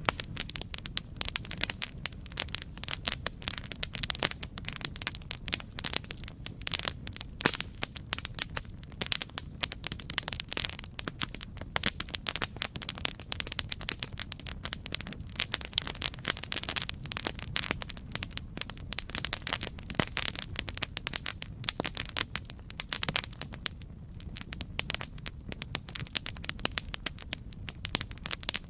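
Campfire crackling: a steady low rumble of the flames with dense, irregular sharp pops and snaps throughout.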